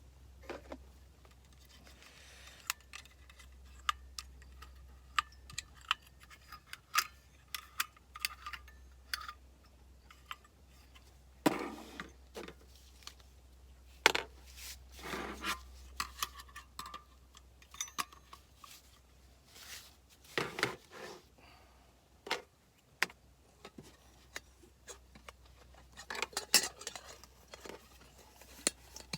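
Hands handling small hard objects: a string of irregular clicks, clinks and knocks with some rustling, the sound of camp gear being sorted or set up.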